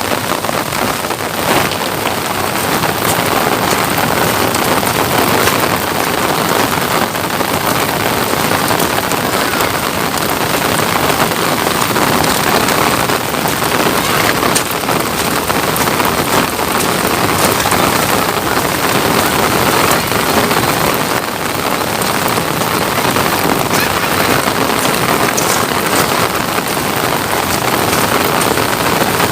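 Steady rain falling, an even hiss throughout with a few sharper drop taps.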